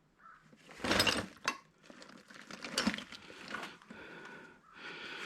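Metal tools and parts being handled and set down on a bench: irregular clinks and knocks, the loudest about a second in, followed by lighter rattling.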